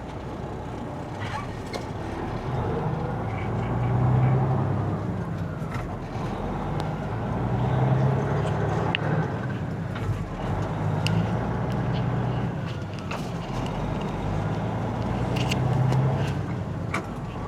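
Semi truck's diesel engine pulling a loaded trailer, its revs climbing and then dropping back several times as the driver shifts up through the gears of the manual transmission.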